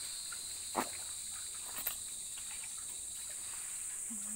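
Steady high-pitched chorus of insects, a continuous buzz in two high bands, with two faint clicks about a second and two seconds in.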